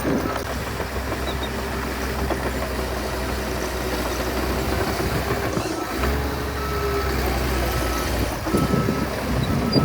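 Heavy earthmoving machine's diesel engine running steadily, with a backup alarm beeping in short repeated tones.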